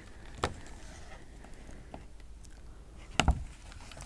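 Handling noise of the cheesecake and its container being moved and set down close to the microphone: a sharp knock about half a second in and a louder double knock near the end.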